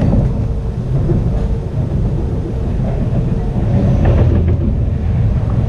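Running train heard from inside a 25T passenger coach: a steady, heavy low rumble of wheels on the track, with a faint steady hum.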